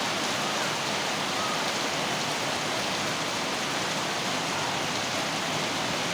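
Heavy rain falling steadily, a dense even hiss of rain on the ground.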